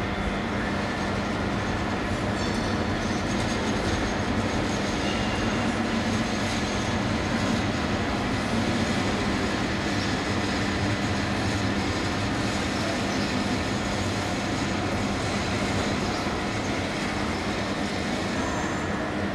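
Electric passenger train rolling slowly on rails: a steady rumble with a low hum and faint high wheel squeals.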